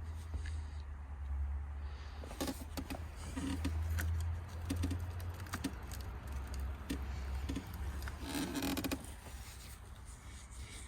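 Handling and wiping of a small removed metal bracket: scattered light clicks, knocks and rustles, with a longer stretch of rubbing about eight seconds in, over a steady low hum.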